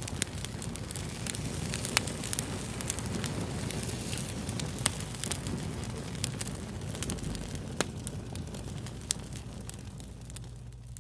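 Wood fire crackling: a steady low rush broken by frequent sharp pops and snaps, a few of them much louder than the rest.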